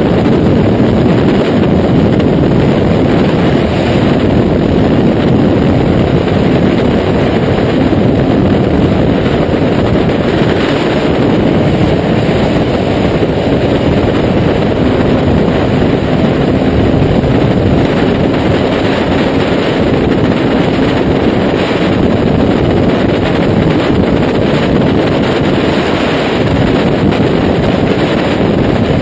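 Kawasaki Z800's inline-four engine running through a Taylor Made Firetong aftermarket exhaust, steady and loud, with wind noise on the microphone.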